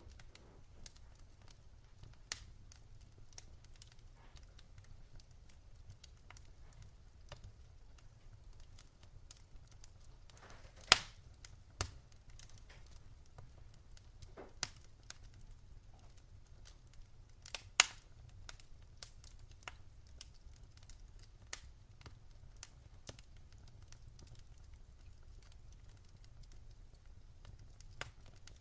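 Wood fire in a fireplace crackling: scattered sharp pops and snaps over a steady low rumble, with two louder pops, about a third of the way in and a little past the middle.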